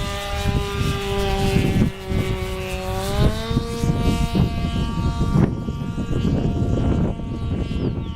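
O.S. Wankel rotary engine of an RC model Tiger Moth biplane running in flight, a steady high buzz whose pitch rises about three seconds in and then holds.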